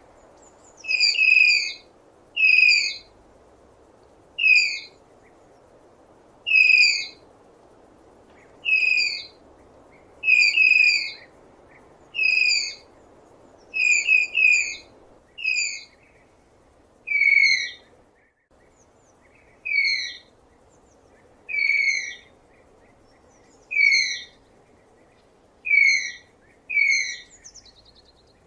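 Tapir giving a long series of short, high-pitched whistling squeals, one every second or two and now and then two in quick succession, each call dipping slightly in pitch.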